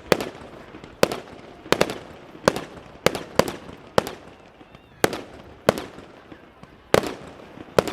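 Fireworks display: a quick, irregular run of about eleven sharp bangs, roughly one every half second to a second, each with a short echoing tail.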